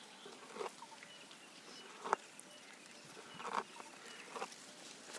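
Giraffe browsing: leaves and twigs tearing and being chewed in a few short crunchy bursts, the sharpest about two seconds in. Faint bird chirps behind.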